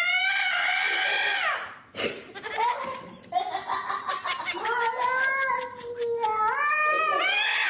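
Domestic cat yowling in long, drawn-out calls that rise and fall in pitch. A sharp break comes about two seconds in, then a second long, wavering yowl that climbs near the end.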